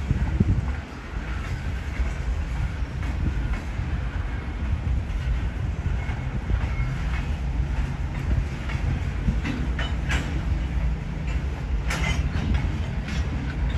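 Freight train's boxcars rolling past at steady speed: a continuous low rumble of wheels on rail, with sharp clacks of the wheels over the rail joints now and then, the loudest near the end.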